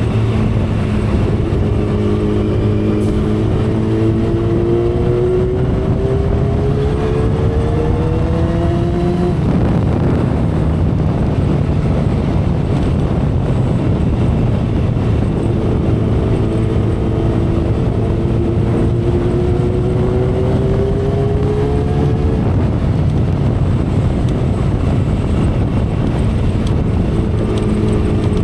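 2012 Kawasaki Ninja ZX-10R's inline-four engine under way, its note climbing slowly for several seconds before dropping away about nine seconds in, then climbing and dropping again in a second long pull, with a third starting near the end. Steady wind and road noise run underneath.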